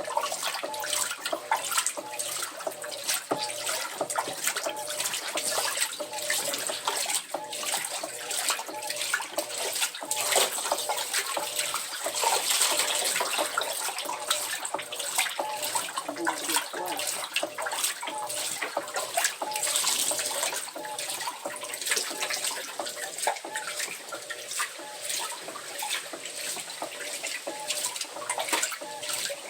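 Water splashing and running inside an Electrolux LTC07 washing machine's tub, a continuous irregular sloshing.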